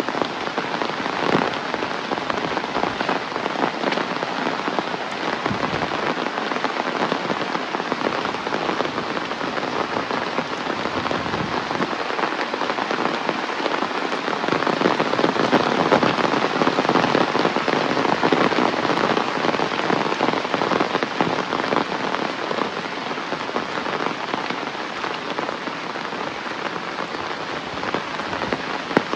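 Heavy rain falling steadily, a dense patter of drops, growing a little heavier around the middle and then easing back.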